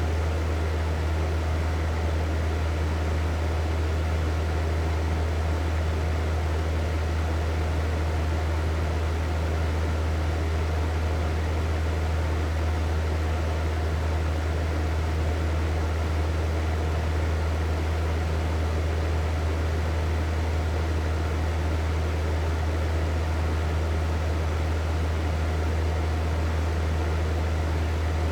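Electric hair dryer running steadily: a constant rush of blown air over a low motor hum.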